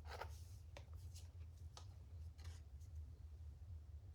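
Faint handling sounds: a few small clicks, taps and rustles as a small cardboard gift box and its packaging are handled, over a steady low hum.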